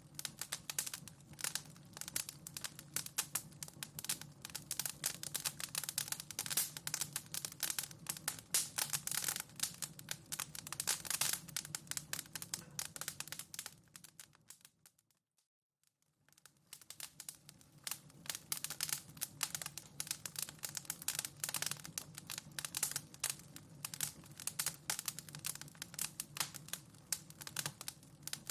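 Wood fire crackling in a fireplace: a dense run of small pops and snaps over a low hum. About halfway through it fades out to silence for a couple of seconds, then fades back in.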